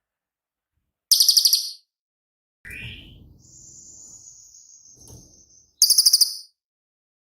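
Cililin bird singing: two loud, very rapid high trills of its 'shooting' song, with a short lower rising note and a long, steady, high whistle between them.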